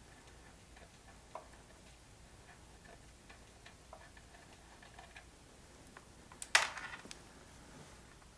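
Faint, scattered small clicks and ticks of a wrench loosening a 10 mm oil drain plug on a mini bike engine, with one sharper metallic clink about six and a half seconds in.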